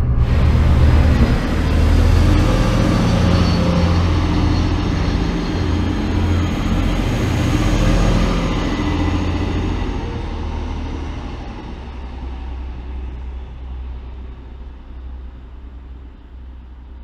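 Passenger multiple-unit train running past a station platform: a rumble of wheels on rails with a hiss above it, fading steadily in the second half as the train moves away.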